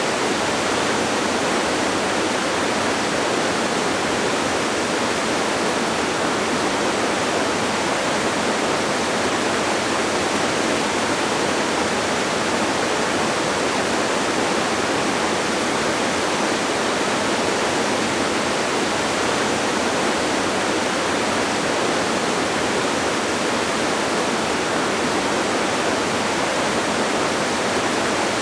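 Distant waterfall: a steady, unbroken rush of falling water, even in level throughout, with little deep rumble.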